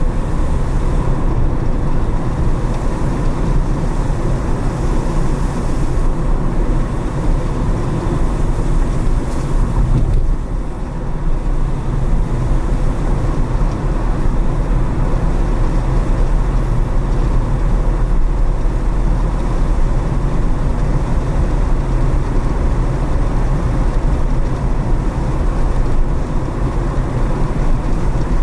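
A car driving, its engine and tyres making a steady low road rumble, with a brief dip in level about ten seconds in.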